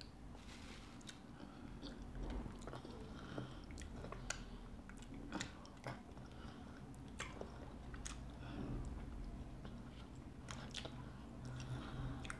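Two people eating fufu and nsala soup with fish and meat by hand: wet chewing with irregular short smacks and clicks of lips and mouth.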